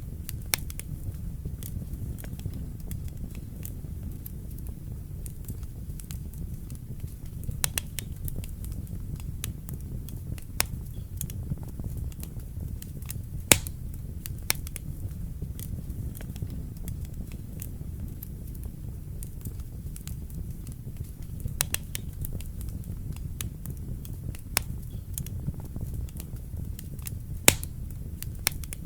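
Wood fire burning in a fireplace: a steady low rumble of the flames with scattered sharp crackles and pops, the loudest pops about 13 seconds in and near the end.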